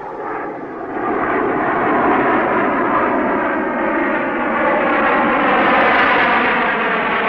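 Airplane engines running loud and steady, fading up in the first second.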